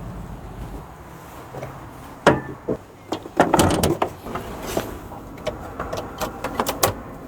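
A string of sharp clicks and knocks from objects being handled, with a louder scraping burst about three and a half seconds in.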